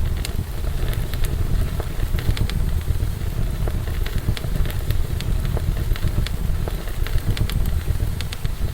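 Wood fire in a fireplace crackling, with frequent sharp pops scattered at irregular intervals over a steady low rumble.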